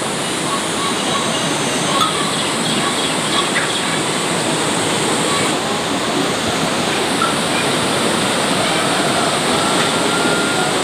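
Heavy rain falling steadily, an even rushing hiss, with a few faint clicks in the first few seconds.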